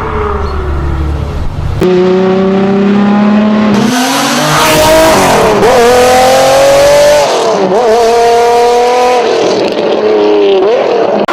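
A V12 supercar engine accelerating hard through the gears. Its pitch climbs, drops sharply at each of three upshifts, and climbs again. Before that, about two seconds in, a different engine's falling note cuts off.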